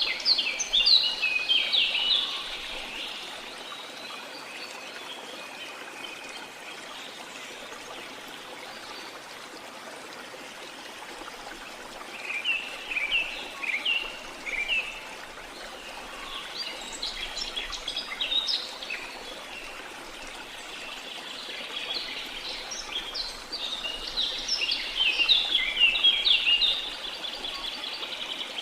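Steady rush of running water with birds singing over it in bursts of quick, high chirps. The birds sing at the start, twice around the middle, and through a longer stretch near the end.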